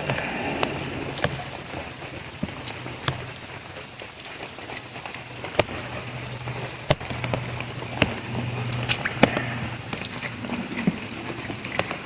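Steady tropical rain hissing, with scattered sharp ticks and crackles throughout.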